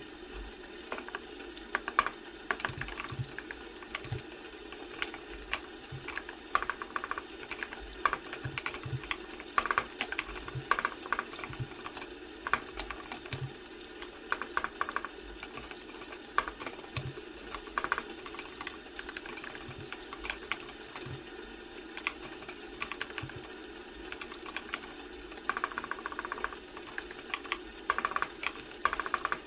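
Typing on a computer keyboard: irregular runs of quick key clicks broken by short pauses, over a steady low background noise.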